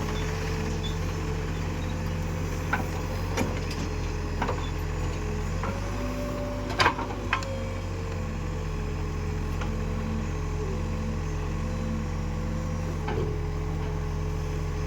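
A heavy vehicle's engine running steadily, its pitch rising and settling briefly about halfway through, with scattered metallic knocks; the loudest clank comes about seven seconds in.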